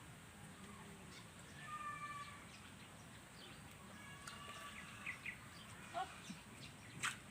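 Small birds chirping faintly in short whistled notes over a low steady background hum, with a sharp click about seven seconds in.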